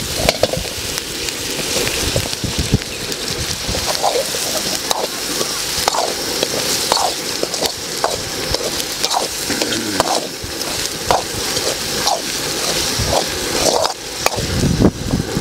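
Lobster meat, onions and green chillies sizzling in oil in a metal wok while a metal spoon stirs and scrapes against the pan, with a scrape about once a second over a steady hiss of frying.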